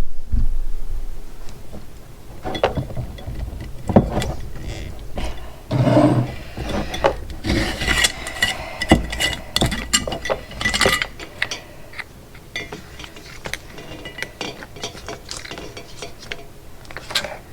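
Parts of hand-held goat-milking equipment being twisted, unscrewed and pulled apart: scattered clicks, knocks and rubbing, busiest in the middle.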